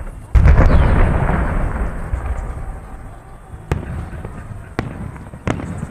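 Aerial fireworks salute shells bursting: a loud boom about a third of a second in, its crackle fading over the next two seconds, then three sharper single bangs in the second half.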